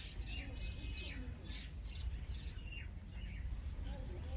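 Several small birds chirping in quick, short, downward-sliding notes, one after another, over a steady low rumble.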